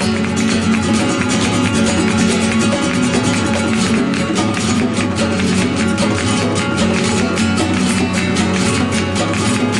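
Background music: fast, rhythmic flamenco-style acoustic guitar with plucked and strummed notes.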